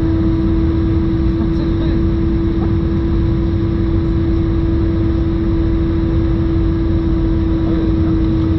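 Airbus A320-214 cabin noise in descent: a steady low engine and airflow rumble with a strong, unchanging howl on one pitch, which the uploader puts down to the left engine.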